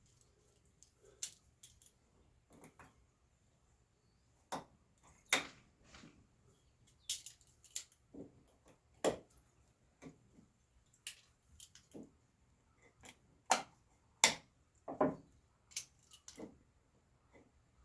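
Small metal screws and nails clinking and clicking as they are picked out by hand, in scattered light clicks about once a second.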